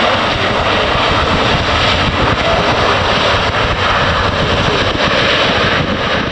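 The CFM56 jet engines of an arriving SunExpress Boeing 737-800 make a loud, steady rush of noise that holds at much the same level throughout.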